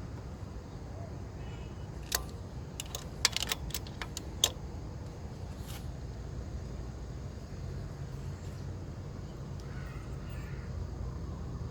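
Car engine idling with a steady low hum, with a few sharp clicks between about two and four and a half seconds in.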